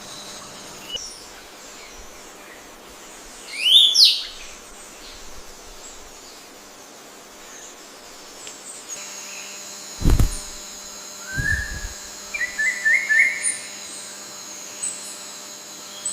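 Forest birds calling: a loud sweeping whistled call about four seconds in, and later a quick run of four or five short chirps, over a steady high hiss. Two low thumps come near the middle.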